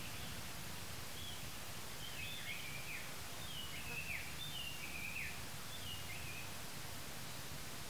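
A bird calling in the forest: about six short high calls, each sliding down in pitch, over a steady hiss and low hum.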